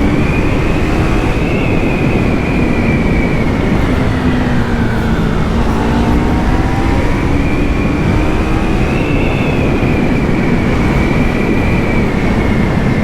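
Yamaha MT-03's stock 321 cc parallel-twin engine revving hard under way, its pitch rising and falling with the throttle, dipping about five seconds in and climbing again, over heavy wind rush.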